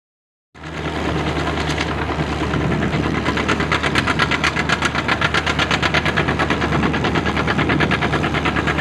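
Antique farm tractor engine running with a rapid, even beat of exhaust pulses, starting abruptly about half a second in.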